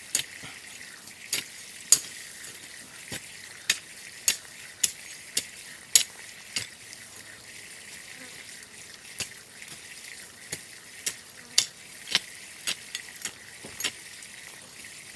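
Soil being dug into and mixed, with irregular sharp gritty scrapes and clicks about one or two a second over a steady high hiss.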